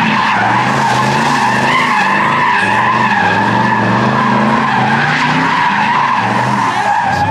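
A car doing a burnout: tyres squealing continuously in one steady high tone over the engine held at high revs.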